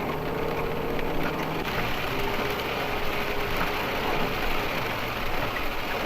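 Motorhome engine running, heard from inside the cab along with road noise; its hum shifts in pitch about two seconds in.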